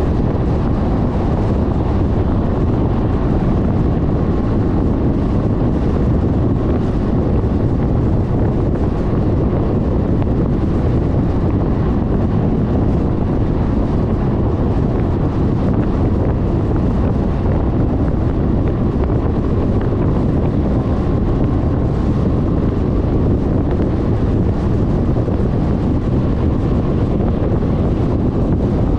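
Steady wind rush buffeting a scooter-mounted GoPro microphone while riding at road speed, with the running of a Suzuki Burgman 400 scooter mixed in underneath.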